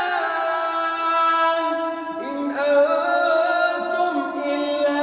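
Melodic Quran recitation (tajwid) by a single unaccompanied voice, holding a long drawn-out note with ornamented pitch turns. About two seconds in, the voice briefly softens and slides down, then rises into a new held note.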